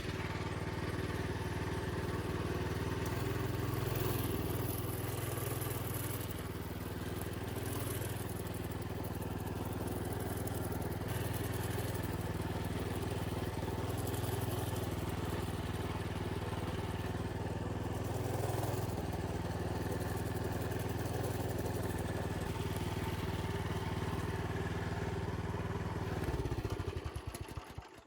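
Minibike's small engine running, its revs swelling and easing several times. Near the end the engine is shut off and winds down to silence.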